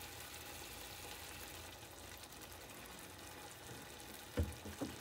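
Chicken and tomato puree sizzling steadily in a nonstick wok, with two short knocks about four and a half seconds in.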